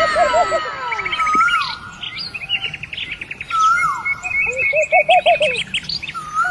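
Several birds singing and chirping at once, with overlapping calls: falling whistles near the start, then runs of rapid repeated chirps and short trills.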